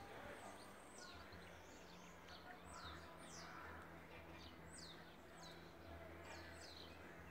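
Faint calls of small birds: quick, high chirps that slide down in pitch, about two a second, over a low steady background hum.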